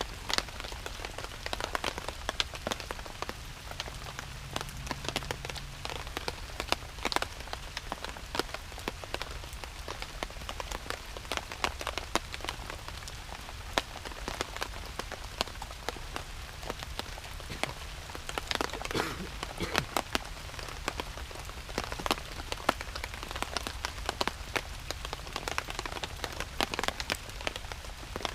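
Steady rain, with many close drops landing in quick, irregular taps on a surface near the microphone over a constant hiss.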